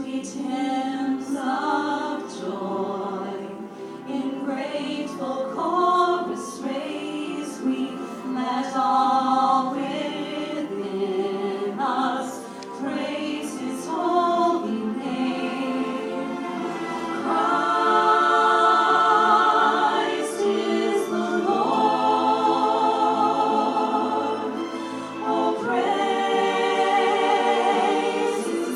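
A choir of voices singing together without instruments, in held and shifting chords.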